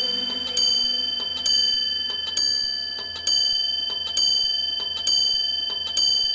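Clock chiming the hour: a bell-like strike a little under once a second, each one ringing on until the next. These are seven of the eleven strokes for 'the clock struck eleven'.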